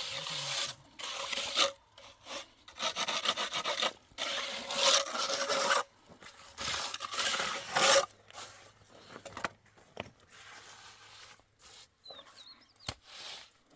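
A hand tool rasping in long back-and-forth strokes during wall work, about four strokes in the first eight seconds. It then turns to quieter scraping, with a few sharp knocks near the end.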